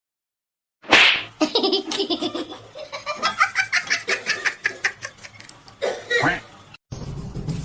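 A sudden loud burst, then a person laughing hard in quick, pulsing peals for several seconds. The laughter cuts off abruptly near the end, and a steady noisy background takes over.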